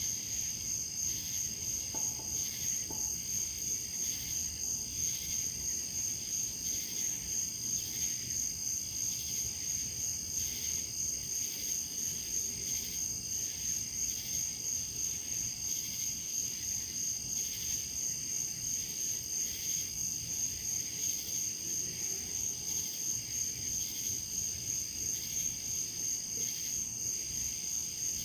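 Insects chirping in a steady high-pitched chorus that pulses evenly, a few beats a second.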